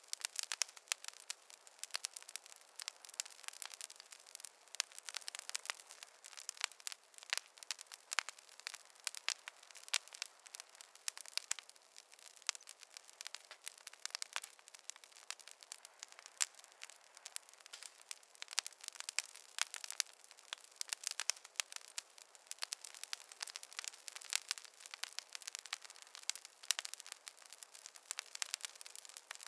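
Wood fire crackling, with dense, irregular sharp pops and snaps throughout.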